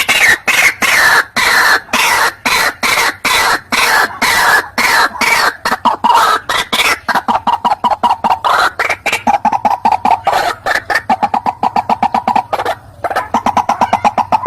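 White-breasted waterhen calling: a fast, harsh run of short repeated notes, several a second. At first they sweep down in pitch; after about halfway they turn steadier and lower, with a brief break near the end.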